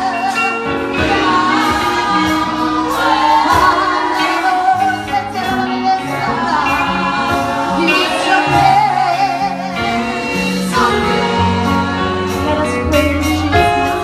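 Gospel choir singing with a band, over a sustained bass line and a steady beat.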